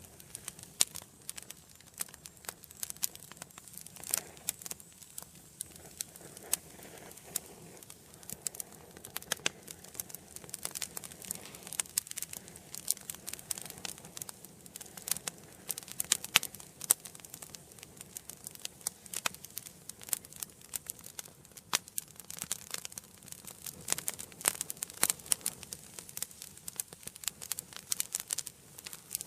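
Wood fire burning in a fireplace, crackling with many irregular sharp pops and snaps over a soft hiss.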